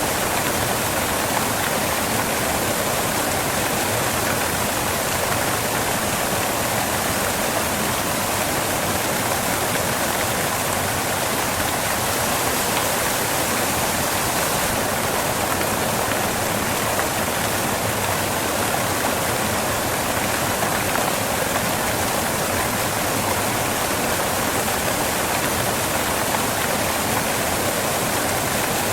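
Waterfall crashing onto rocks: a steady, unbroken rush of falling water.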